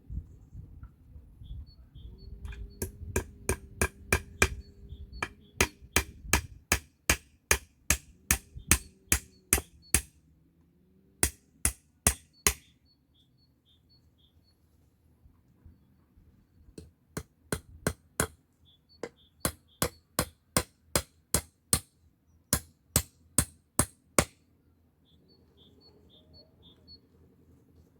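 Hammer driving nails into wood for a rough table and bench, in runs of sharp blows about two to three a second, with a pause of a few seconds midway. Birds chirp faintly between the runs.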